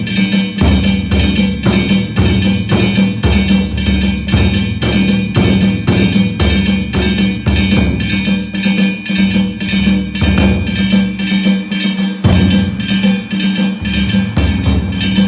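Danjiri festival narimono: taiko drums and metal hand gongs struck together in a steady, fast beat of about two to three strokes a second, the gongs ringing on between strokes.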